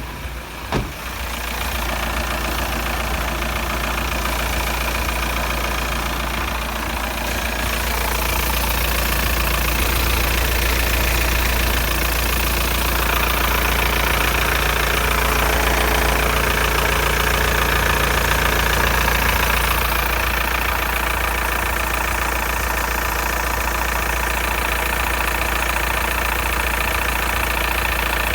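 Audi 1.9 TDI 1Z four-cylinder turbodiesel engine running steadily at idle. A single sharp knock sounds about a second in.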